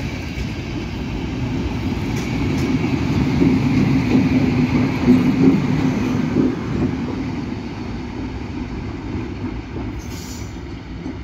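Electric passenger train passing close on the rails, a Macedonian Railways class 461 electric locomotive among the rolling stock, running by with a steady rumble that swells to its loudest about five seconds in and then fades. A faint high wheel squeal sounds in the first few seconds.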